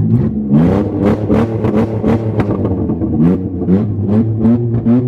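Car engine revved in quick repeated throttle blips, about two a second, the pitch sweeping up with each blip over a steady idle.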